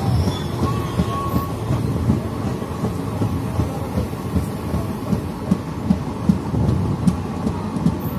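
Indian Railways passenger coach running along the track: a steady wheel-on-rail rumble with irregular clickety-clack knocks.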